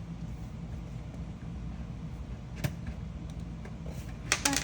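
Plastic Lego pieces clicking as they are handled and pressed into place: one sharp click about two and a half seconds in and a quick cluster of clicks near the end, over a steady low hum.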